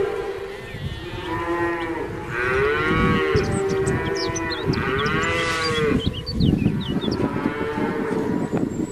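Cattle mooing: a series of overlapping calls about a second each, each rising and then falling in pitch. Short high chirps come in through the middle.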